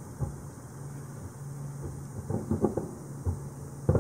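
Far-off fireworks shells bursting over the city: a single boom just after the start, a quick run of several reports about two and a half seconds in, and the loudest boom at the very end.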